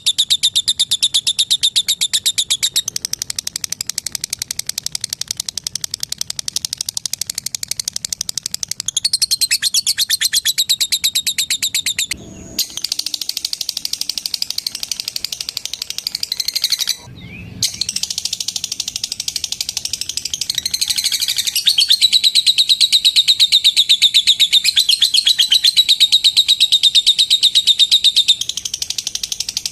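Female lovebird giving a long, very fast chattering trill of high ticks (the 'ngekek' call), broken by two short pauses partway through.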